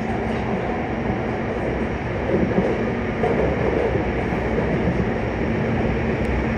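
Yokohama Municipal Subway 3000N-series train running at a steady pace, heard from inside the carriage: a continuous rumble of wheels on rail with a steady low hum.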